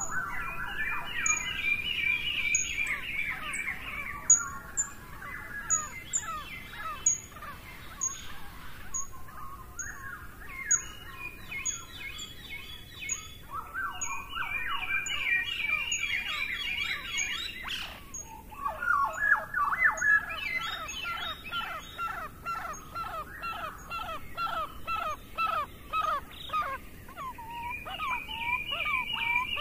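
Birdsong: several birds chirping and trilling, with a thin, very high note repeated over and over.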